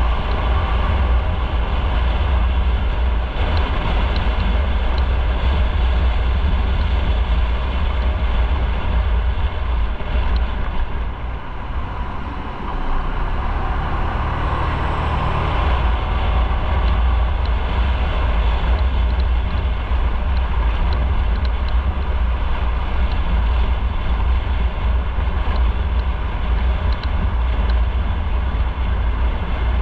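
Motorcycle riding at road speed, with engine noise and heavy wind rumble on an onboard microphone; the noise eases briefly near the middle, then picks up again.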